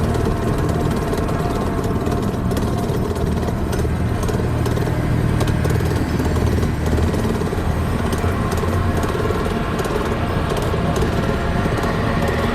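Mini bike engine running steadily.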